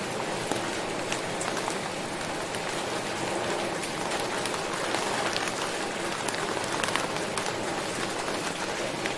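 Steady rain falling, a continuous hiss with many sharp individual drop impacts ticking on a hard surface.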